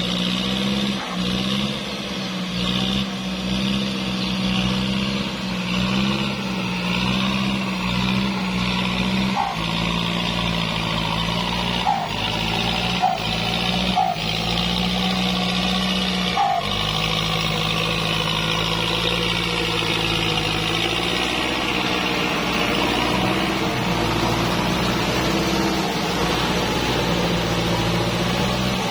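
Kubota tractor's diesel engine running steadily under load while rotary-tilling a wet rice paddy, its pitch shifting slightly. A few sharp knocks come about a third to halfway through.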